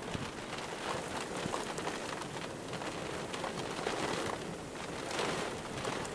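Steady rain falling, a dense hiss of many small drop hits.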